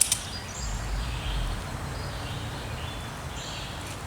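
Faint bird chirps over low wind rumble on the microphone, with one sharp click right at the start.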